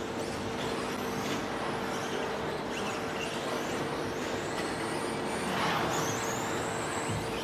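Several electric 13.5-turn brushless 2WD RC stadium trucks racing off-road, their high-pitched motor whines rising and falling as they accelerate and brake. A busy wash of tyre and track noise lies under the whines, along with a steady hum.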